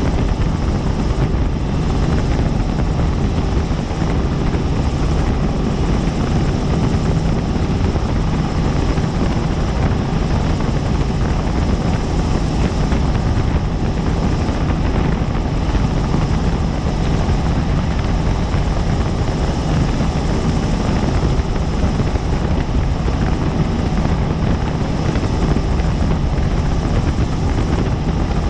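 Helicopter in flight, heard from on board: a loud, steady drone of rotor and turbine noise with a low hum running under it, unchanging throughout.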